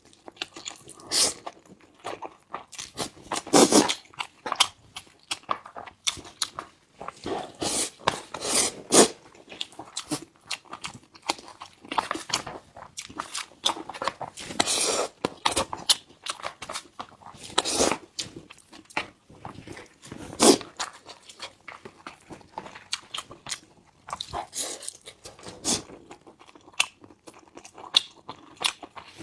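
A person chewing and crunching food, with many irregular short sharp mouth clicks and bites.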